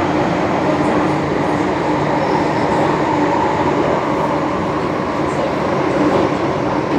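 MTR M-Train running through a tunnel, heard from inside the car: a steady rumble of wheels and motors with a faint whine held at a steady pitch.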